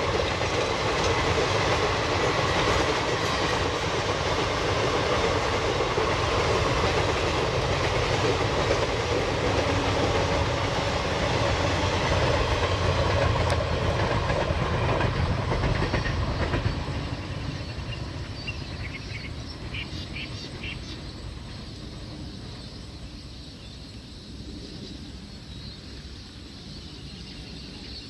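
Express passenger train's coaches rolling past at speed, wheels clattering on the rail joints. About two-thirds of the way through the sound drops away and keeps fading as the train recedes, leaving faint chirping.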